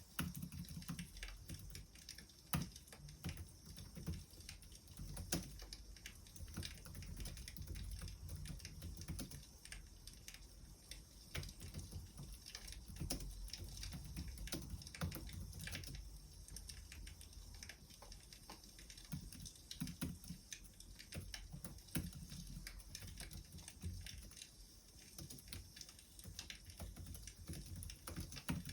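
Wood fire crackling: irregular small pops and snaps over a low, steady rumble.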